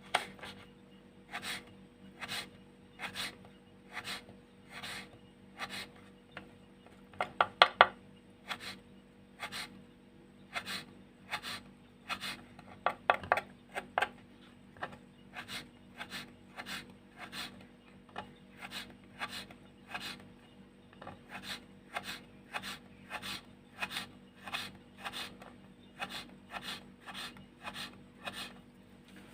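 Repeated rubbing or rasping strokes, about one a second at first and quickening to about two a second, with two short runs of rapid clicks about 7 and 13 seconds in. A faint steady hum lies underneath.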